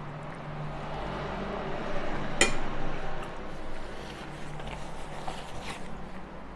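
Chewing a mouthful of pasta, with one sharp clink of a metal fork against a ceramic bowl about two and a half seconds in, over a low steady hum.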